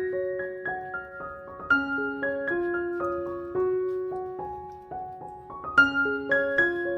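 Background piano music: a gentle melody of single struck notes, about three or four a second, in a repeating phrase.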